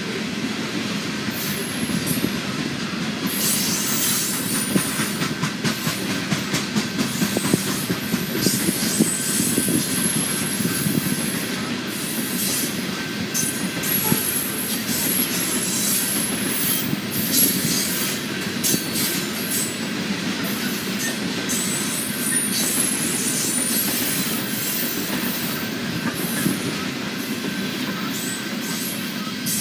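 Loaded freight coal cars rolling past: a steady rumble of steel wheels on the rails, with high-pitched wheel squeal coming and going throughout.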